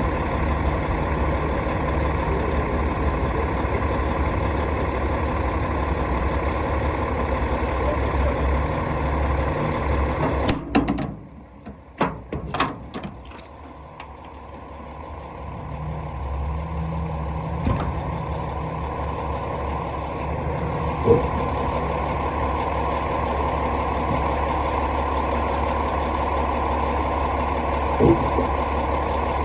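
Rooftop HVAC unit running with a steady low hum; about eleven seconds in it drops out with a few clicks, then builds back up over a few seconds and runs steadily again, with a couple of short knocks later on.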